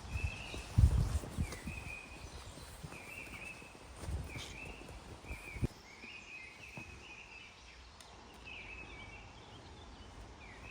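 A bird calling over and over in short chirps, with a few low thuds and rustles, the loudest about a second in.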